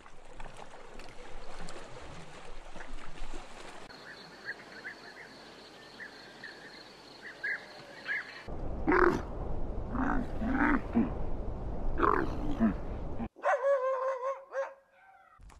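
A run of animal sounds. First a soft, even background hiss, then a quieter stretch with short chirps. Then several loud, deep calls in a row from a camel, and near the end a Pomeranian dog's whine, held about a second and a half.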